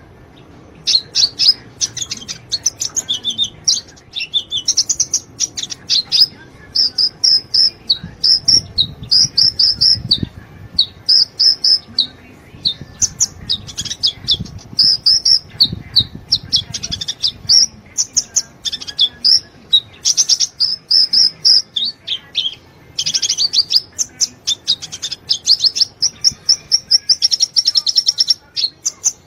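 Sunbird singing tirelessly ('gacor'): rapid strings of high, thin chirps and trills in short phrases, one after another with only brief pauses.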